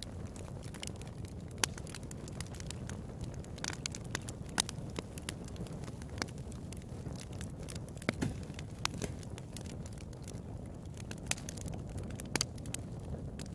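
Wood fire burning in a fireplace: a steady low rumble with irregular crackles and a few sharp pops.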